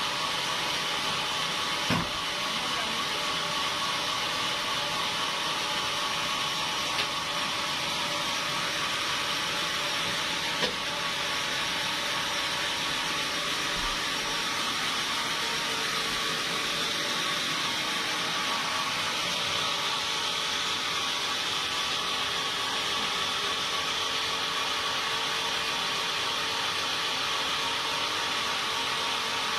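Sawmill machinery running steadily, a constant whine with hiss, with a few short knocks about 2, 7 and 11 seconds in.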